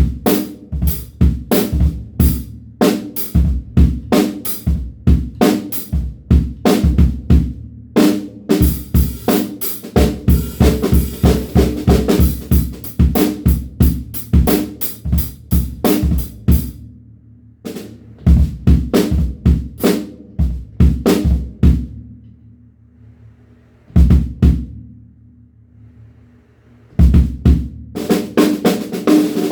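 DW Frequent Flyer drum kit played in grooves and fills: rapid snare, bass drum and tom strokes with rimshots. The playing breaks off a little past halfway, picks up again, then stops to a quiet stretch with one lone hit left ringing before the kit comes back in near the end.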